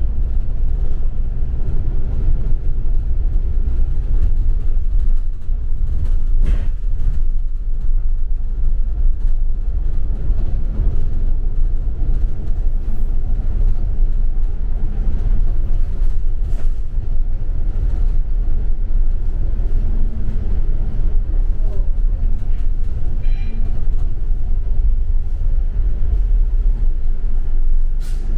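Double-decker bus heard from inside the cabin while under way: a steady low rumble of engine and running gear, with a few brief knocks and rattles.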